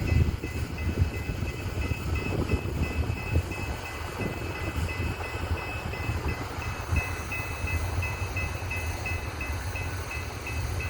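BNSF coal train of SD70ACE and ES44AC locomotives hauling coal cars, rolling with a steady low rumble and scattered wheel knocks. A high tone pulses evenly about three times a second throughout.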